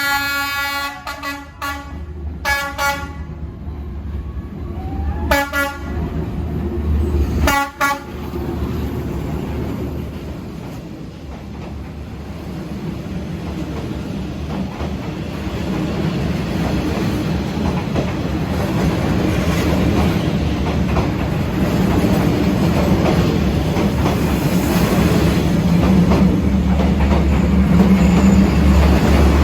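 A diesel passenger train's horn sounds four blasts in the first eight seconds. The first is the longest. The train then rumbles past at close range, getting louder toward the end.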